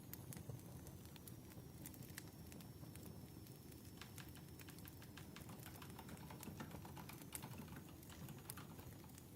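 Faint crackling campfire: a low, even noise of burning wood with sparse, irregular sharp pops and snaps.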